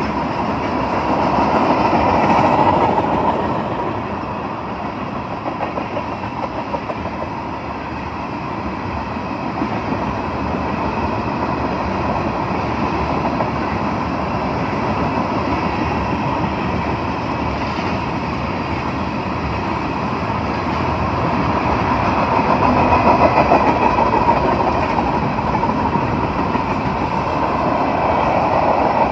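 Freight train of tank cars passing at speed: a steady rumble and clatter of steel wheels on the rails, swelling louder twice.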